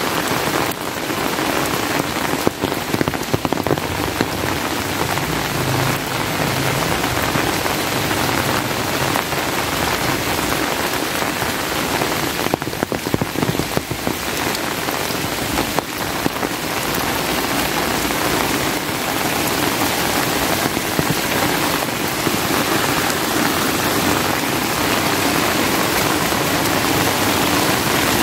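Steady rain falling, with scattered sharper drop hits a few seconds in and again about halfway through.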